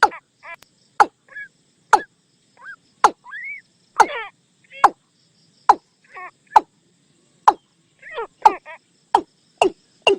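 Watercock calling: short, sharp, throaty notes repeated about one to two a second, with a couple of quick runs of notes and one rising note. This is a call recording played as a lure to bring watercocks in.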